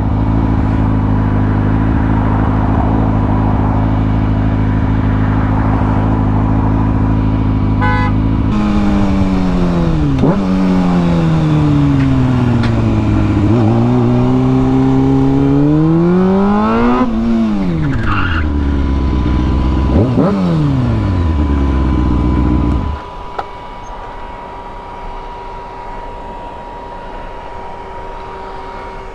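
Small motorcycle engine idling steadily, then rising and falling in pitch several times as it is ridden and revved. It cuts off about 23 seconds in, leaving a quieter steady hiss.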